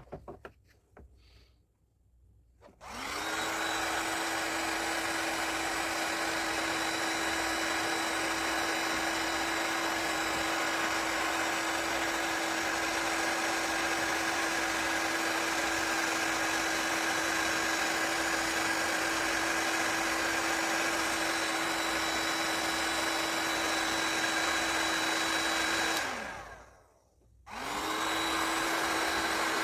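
Small electric power tool's motor switched on and running steadily with a constant hum and hiss; near the end it is switched off and winds down, then is started again a second or so later.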